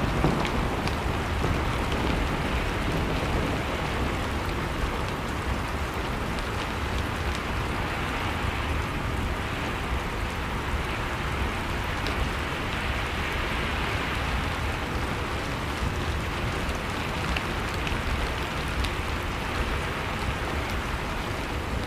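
Blizzard-and-fireplace ambience: a steady rushing storm noise of wind and blowing snow, with a few faint crackles from a wood fire.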